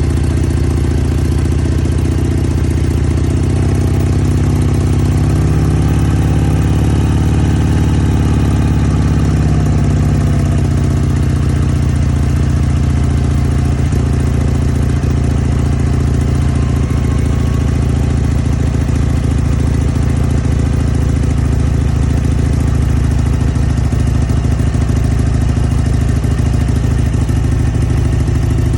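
Harley-Davidson motorcycle's V-twin engine running steadily, its pitch rising slightly a few seconds in and easing back at about ten seconds.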